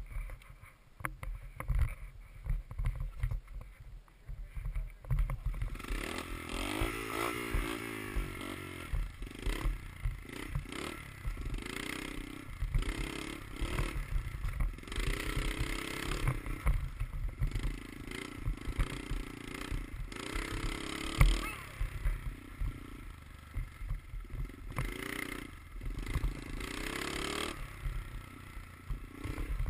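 Dirt bike engine running and revving up and down while riding, with wind and knocks buffeting the microphone. The first few seconds are quieter, and the engine's pitch rises and falls from about six seconds in.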